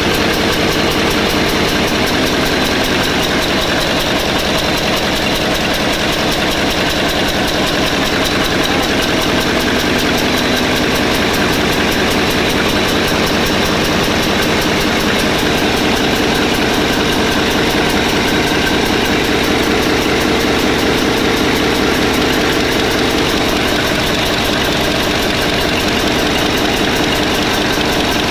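Generator engine running steadily at an unchanging speed.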